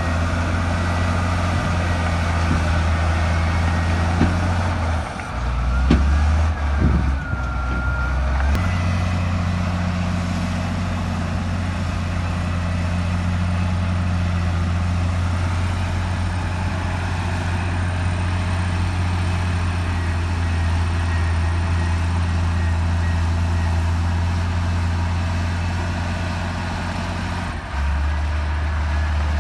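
Heavy diesel engine of earthmoving machinery running steadily under load. About five seconds in, its note drops and wavers for roughly three seconds, with a short whistle, before settling back to a steady run, and it shifts again near the end.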